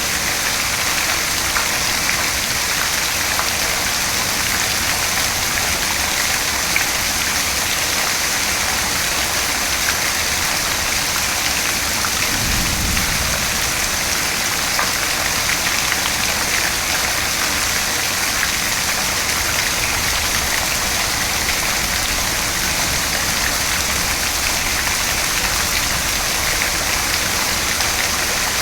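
Steady rain falling, a dense even hiss of drops on surfaces, with a brief low rumble about halfway through.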